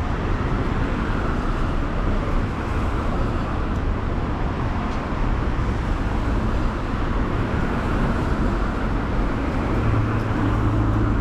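City street traffic noise: cars passing with a steady rumble of road noise. A low, steady engine hum joins near the end.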